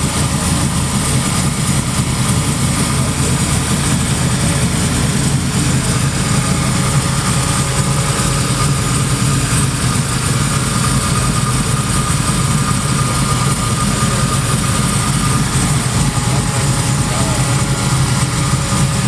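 Custom Chevrolet Impala's Nelson Racing Engines-built engine running at a steady, unchanging speed with a deep drone, at a constant loudness throughout.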